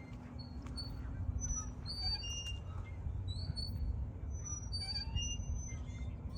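Several birds chirping and singing in short, high notes, over a steady low rumble.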